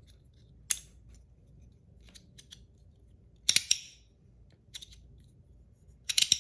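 Sharp clicks from a PEI and aluminium fidget slider being worked by hand. There is a single click about a second in, a close pair in the middle, a few faint ticks between, and a quick run of clicks near the end.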